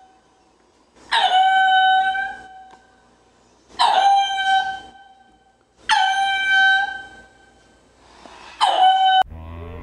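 Ring-tailed lemur calls: four long, high-pitched cries about two seconds apart. Each starts sharply and holds a steady pitch for about a second.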